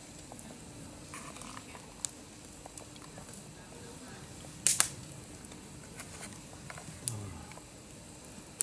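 A few sharp clicks and light knocks, with a loud double click about halfway through, over a low murmur.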